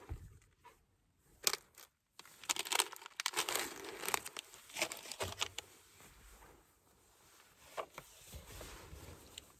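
Packaging being crinkled and torn open by hand: a dense run of sharp rustling and tearing sounds from about one and a half to five and a half seconds in, then quieter handling and a few lone crinkles.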